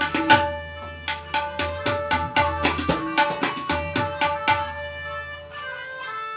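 Tabla solo in teentaal: fast, dense strokes on the tabla and bayan, with the bass drum's low ring, stopping about four and a half seconds in. A steady melodic accompaniment of held notes carries on alone after the drumming ends.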